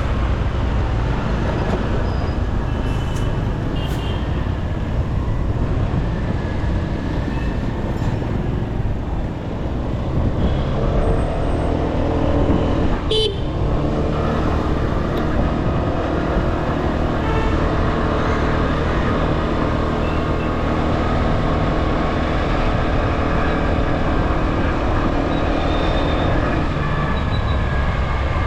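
TVS Pep+ scooter's small single-cylinder four-stroke engine running under way, mixed with wind and road noise. From about eleven seconds in, horns sound around it, and there is one sharp click partway through.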